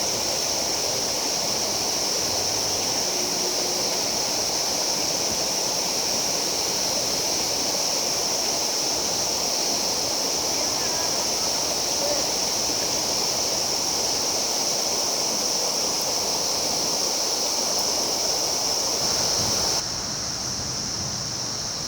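Steady rush of stream water with a continuous high-pitched hiss laid over it. The whole sound drops a little in level near the end.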